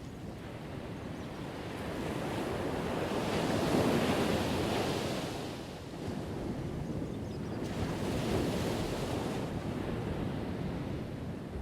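Ocean waves crashing on the shore: surf rushing in, swelling to a peak about four seconds in, easing, then a second wave breaking around eight seconds.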